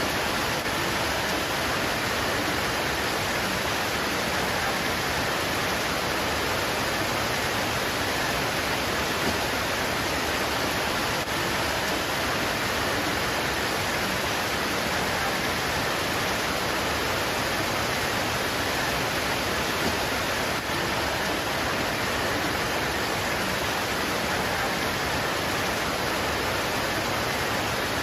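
Steady heavy rain pouring onto leaves, an even unbroken hiss.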